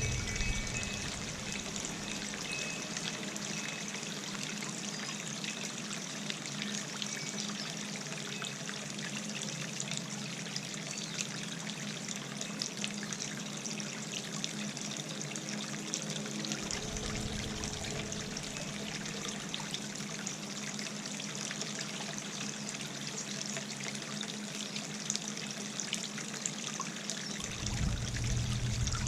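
Birdbath fountain trickling and splashing steadily. Low gusts of wind rumble on the microphone briefly past the middle and again near the end.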